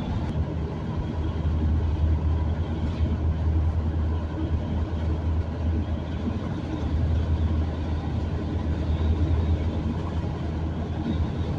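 Steady low drone of a vehicle's engine and tyre noise on the highway, heard from inside the cab while driving at cruising speed.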